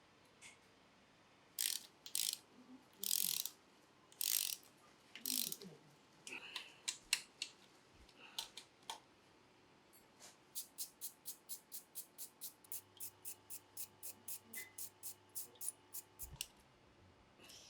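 Hand ratchet wrench being worked, a steady run of sharp clicks about three to four a second through the second half. Before that, several louder separate clacks of tools and metal parts being handled.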